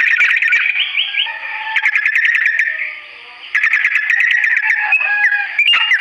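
Yellow-vented bulbul (trucukan) singing: a long, fast, rattling run of repeated notes. About three seconds in it drops away for a moment, then starts again abruptly with another rapid run and some short whistled phrases.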